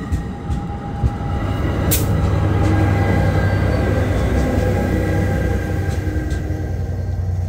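Freight train passing: a steady, loud low rumble with one sharp clack about two seconds in.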